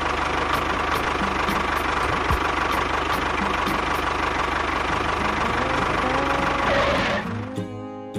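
Small engine running steadily with a fast, even low pulsing. About seven seconds in it stops and plucked-guitar background music takes over.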